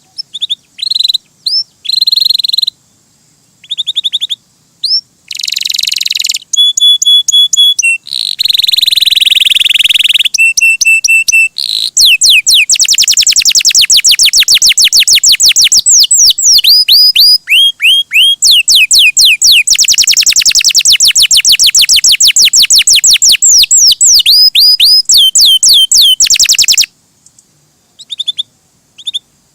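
Domestic canary singing loudly: varied chirps and buzzy notes, then long, very fast trills, broken off by a pause of about two seconds near the end.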